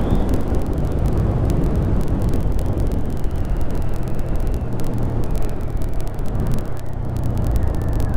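Honda Grom 125's single-cylinder four-stroke engine running at a steady pace while riding, under heavy wind buffeting on the microphone.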